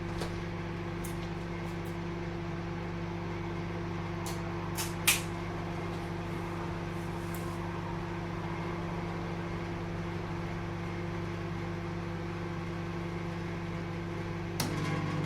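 Microwave oven running with a steady electrical hum and fan noise. A few light clicks come about four to five seconds in, and near the end the hum changes and gets a little louder.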